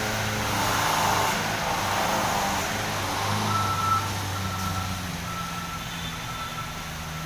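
Truck engine running steadily, with a reversing alarm that starts about halfway through and beeps evenly, a little more than once a second.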